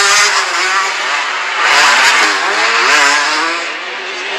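Several 125cc motocross bike engines racing, revving up and down with rises and falls in pitch that overlap as the bikes accelerate and back off.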